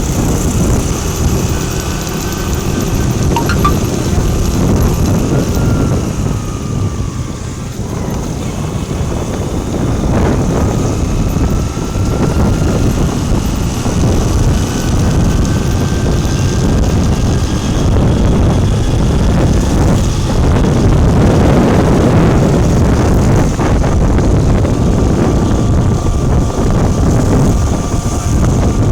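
Loud, steady low rumble of vehicle and wind noise, with faint whining tones that drift slightly in pitch.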